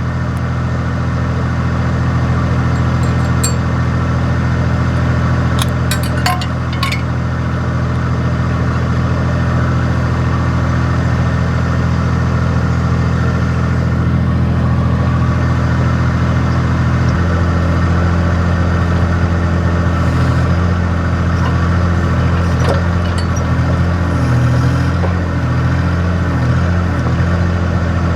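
Mini excavator's diesel engine running steadily, its note changing about seventeen seconds in, with a few light metallic clinks in the first seven seconds.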